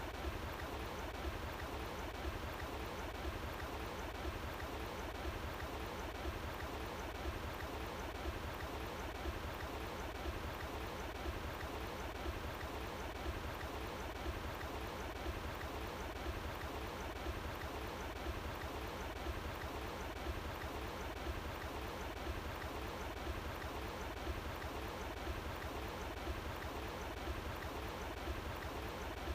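Running water flowing outdoors, a steady, unbroken rush with no change.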